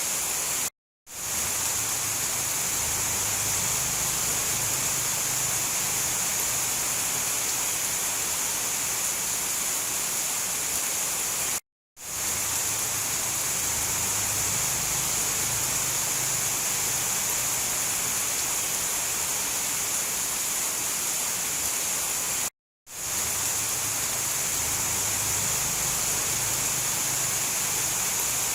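Steady hiss of heavy rain that cuts out completely for a split second three times, about every eleven seconds.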